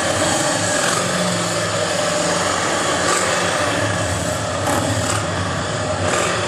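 Vehicle engines running steadily: a low rumble with a steady higher engine tone above it.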